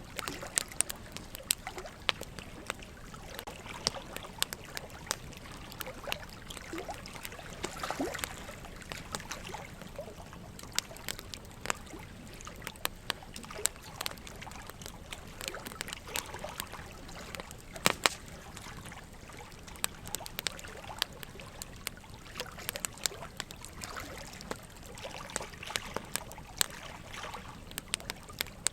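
Burning wood logs crackling, with frequent irregular sharp pops and one louder pop about two-thirds of the way through, over a steady trickle of running water.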